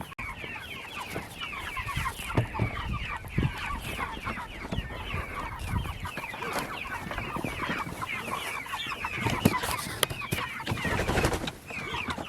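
A flock of chickens chirping and clucking continuously, many short calls overlapping, with a few knocks near the end.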